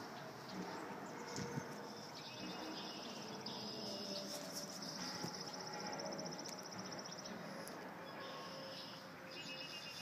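Insects chirring in a high, fast-pulsing trill that comes and goes in stretches of a few seconds.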